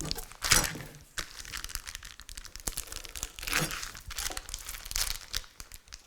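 Crinkling and rustling of the wrapping around sliced Muenster cheese as the slices are pulled out, with scattered light clicks and knocks.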